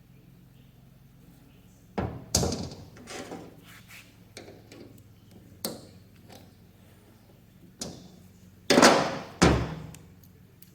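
Metal tools and lathe compound parts knocking and clattering during teardown: a string of sharp clunks with short metallic ringing, starting about two seconds in, the loudest pair near the end.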